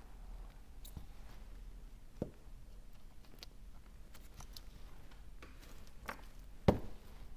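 A few scattered sharp clicks and taps of small hand tools and phone parts being handled, the loudest near the end.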